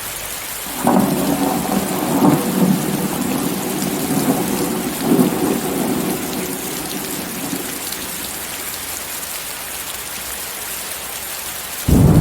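Steady heavy rain with a roll of thunder that rumbles up about a second in, swells twice and dies away over several seconds. A second, louder thunderclap breaks in suddenly at the very end.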